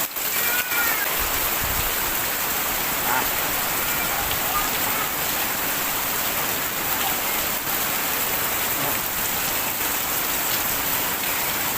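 Heavy rain falling steadily, a dense, even hiss of rain hitting surfaces.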